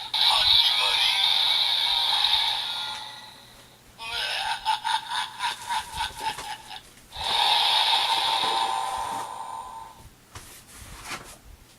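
Evolt Driver toy belt playing its electronic sound effects and transformation audio through its small built-in speaker after a matching pair of full bottles is inserted. A sustained effect fades out, a fast pulsing passage follows, then another sustained effect, with a few faint clicks near the end.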